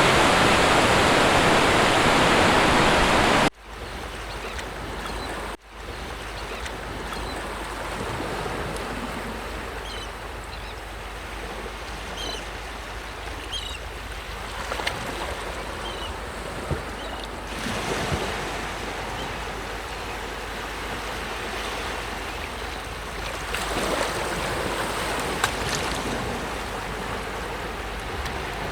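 Sea waves: a loud, dense rushing of water for the first few seconds cuts off suddenly, giving way to gentler surf washing in with slow swells. A few faint, short high chirps sound in the middle.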